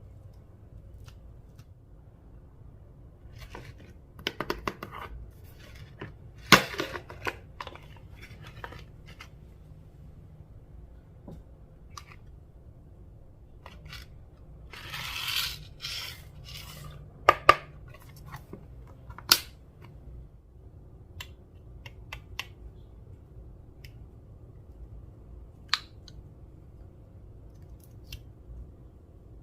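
Slime being handled and mixed, with scattered sticky crackles, a short rustling squish, and a few sharp clicks.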